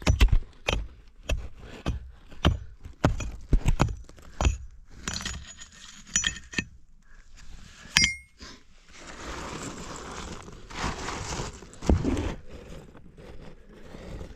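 Rock being dug out by hand in a cave passage: a quick run of sharp knocks as a tool hits stone, a few ringing clinks of metal on rock near the middle, then a stretch of scraping and rattling loose rubble.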